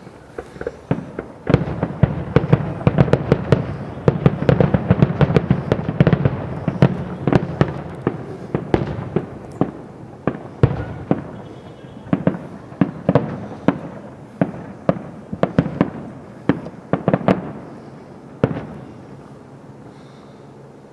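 Aerial fireworks bursting in rapid succession, many sharp bangs a second, thinning out to separate booms after about ten seconds and dying away near the end.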